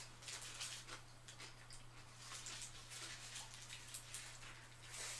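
Close-miked eating sounds: a person chewing, with many small wet clicks and smacks in an irregular patter, then biting into an animal-style cheeseburger near the end.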